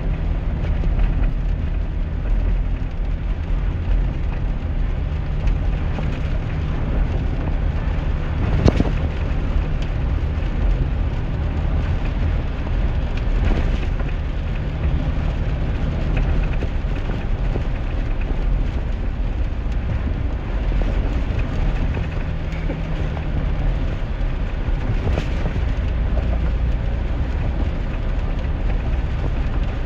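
Inside the cab of a 2001 GMC Sierra pickup driving in the rain: steady engine and road rumble with the hiss of rain and wet tyres, broken by a few brief knocks.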